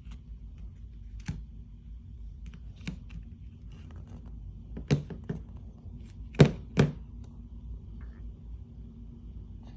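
A few sharp knocks and thuds over a low steady hum, the loudest a pair of thuds about six and a half seconds in.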